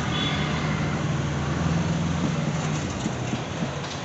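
An engine or motor running with a steady low hum, easing off near the end.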